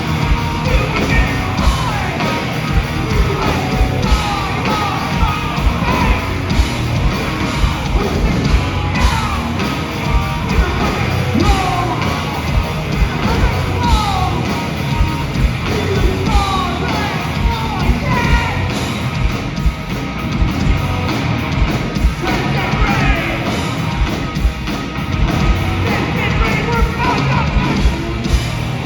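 Hardcore punk band playing live at full volume: distorted guitars, bass and hard-hit drums keeping a steady beat, with shouted vocals over them.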